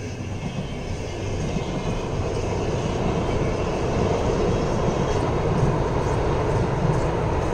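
VR intercity train of double-deck carriages behind an Sr2 electric locomotive rumbling across a steel truss bridge, growing louder over the first couple of seconds and then running steadily.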